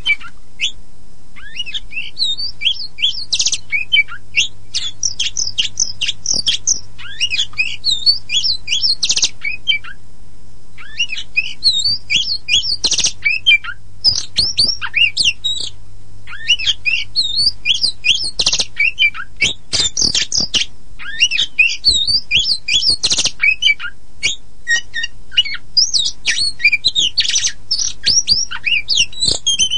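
Oriental magpie-robin (kacer poci, the black-and-white form) singing a fast, varied song of high whistles, rapid chirps and harsh notes, with a short pause about a third of the way in. A faint steady low hum runs underneath.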